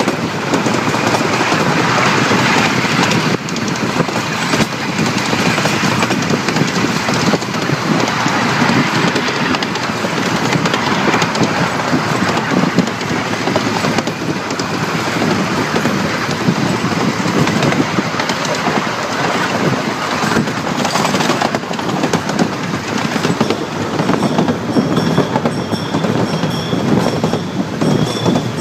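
Small-gauge passenger train rolling along the track, heard from aboard an open car: a continuous rumble of wheels on rail with irregular clatter over the rail joints.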